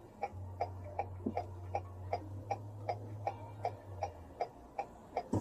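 Car turn-signal indicator clicking steadily, about two and a half ticks a second, over the low hum of the vehicle's cabin.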